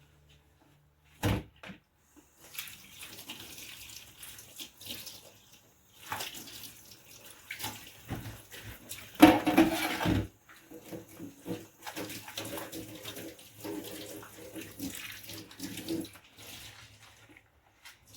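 Dishes being washed by hand at a kitchen sink: tap water runs on and off over the dishes as they are rinsed. A single knock of a dish comes about a second in, and the water is loudest about halfway through.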